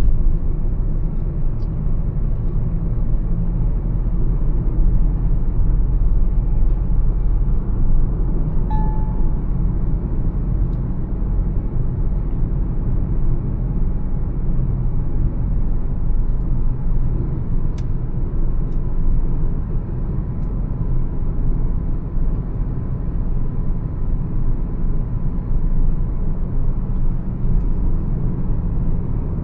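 Mahindra XUV 300 cruising at highway speed: a steady low rumble of engine and road noise.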